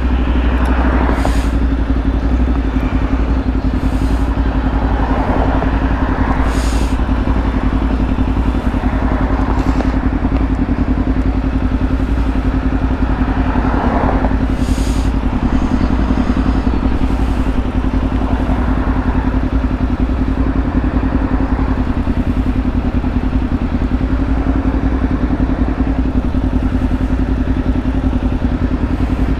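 Kawasaki Ninja 500 parallel-twin engine running at a steady, unchanging pitch, with a few brief knocks or clicks.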